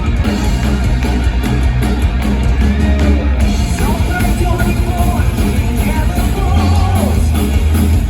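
Rock band playing live, with guitars, bass and drums; a gliding sung or lead melody line comes in about three and a half seconds in.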